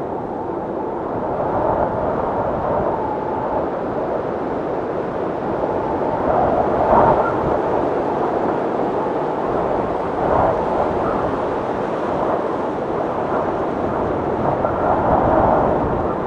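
Blizzard wind blowing hard and steadily, swelling in gusts three times with a faint whistle in the louder gusts.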